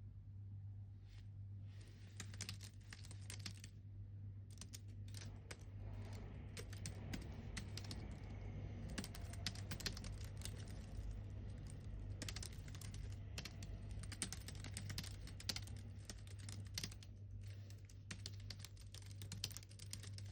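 Typing on a computer keyboard: quick runs of key clicks in bursts, with short pauses between them. A low steady hum sits underneath.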